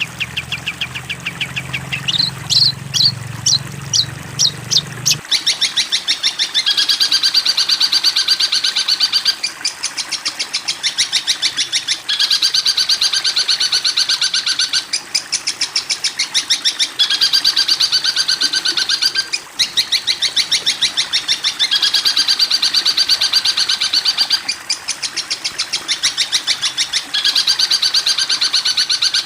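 Recorded songbird calls: a run of fast ticking notes, then louder separate notes over a low hum that stops about five seconds in, followed by a rapid high trill repeated in phrases of two to three seconds with short gaps between them.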